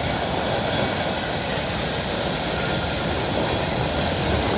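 Freight cars of a CN freight train rolling past at track side: a steady, even noise of wheels running on the rails.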